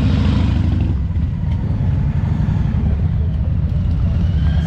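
Motorcycle engines running together in a steady, deep rumble.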